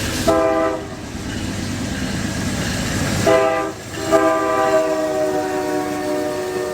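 Locomotive air horn sounding a short blast, then a longer one that breaks briefly and holds on, its chord sagging slightly in pitch, over the rumbling noise of the passing train.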